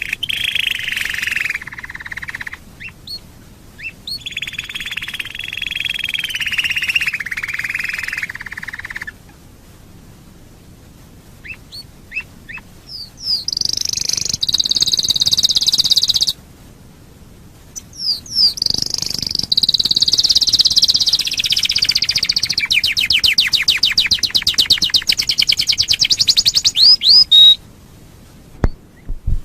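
Domestic canary singing: several long song phrases of rolling trills separated by short pauses, the first two lower-pitched, the later ones higher, the last running into a very fast, even trill that cuts off sharply near the end.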